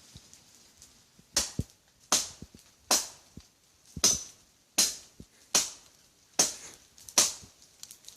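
Cutlass (machete) blade chopping into a tree trunk: eight sharp blows in a steady rhythm, about one every 0.8 seconds, starting about a second and a half in.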